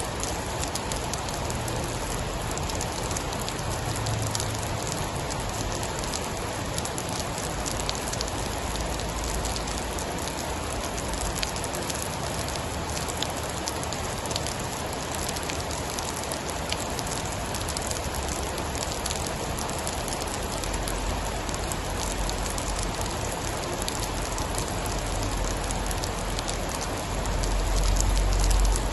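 Steady heavy rain with many fine patter ticks of drops, and a low rumble that swells near the end.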